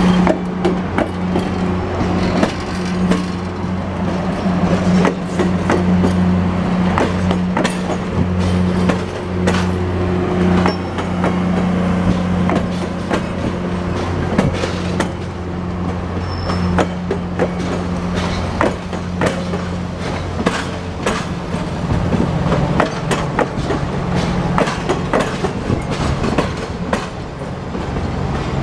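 Diesel-hauled train on the move: a steady low diesel engine drone, with many sharp clicks of the wheels running over rail joints. The drone shifts in pitch about two-thirds of the way through.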